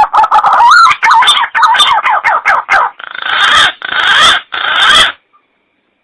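Green pigeon (punai) lure calls: a run of loud, warbling whistled notes that bend up and down, then three harsher rasping bursts, cutting off abruptly a little after five seconds in.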